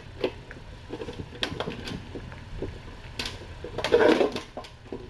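Scattered light clicks and knocks from a string wand toy being handled while its stuck string is freed, with a louder cluster about four seconds in, over a steady low hum.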